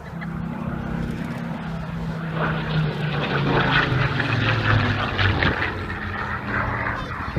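Propeller-driven aircraft flying past. Its engine note falls steadily in pitch as it passes, and the sound grows louder and rougher through the middle.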